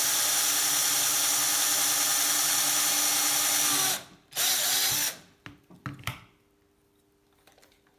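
Power drill boring a pilot hole in a bicycle seat post, running steadily for about four seconds. It stops, gives one short second burst, and then comes a few light clicks.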